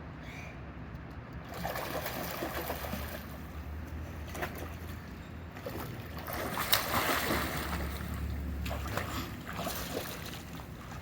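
Pool water splashing and sloshing in uneven bursts as someone swims, building up about a second and a half in and loudest after the middle.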